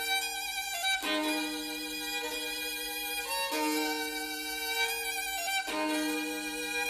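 Antonio Stradivari violin playing a slow melody in long held notes, each lasting about two seconds, with a new note beginning roughly one, three and a half and six seconds in.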